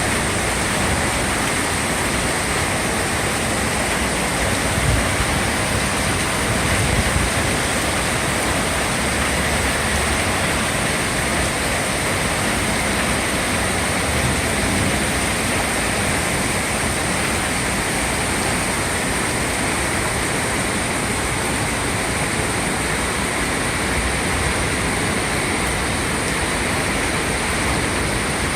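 Steady roar of water: hard rain falling together with the swollen Guadalupe River rushing over its falls.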